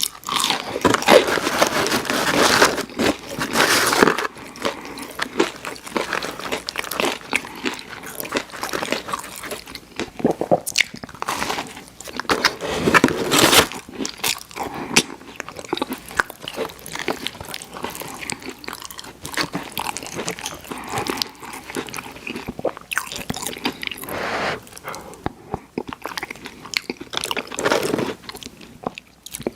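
Close-miked eating of fried fast food: repeated crunchy bites and chewing, with louder crunches at several points.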